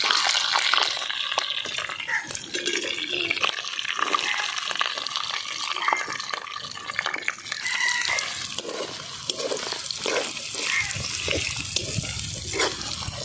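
Bay leaves and whole garam masala sizzling and crackling in hot oil in a cooking pan, a steady hiss dense with small pops.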